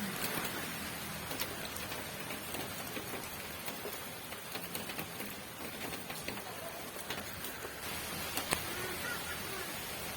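Steady rain falling: an even hiss with scattered sharper taps of single drops, the loudest about eight and a half seconds in.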